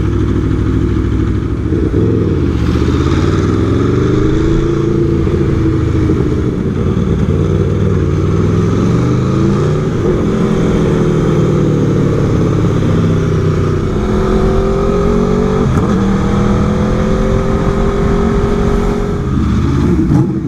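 Aprilia Tuono V4 motorcycle's V4 engine running under way, its pitch rising and falling several times with the throttle and dropping sharply about 16 seconds in.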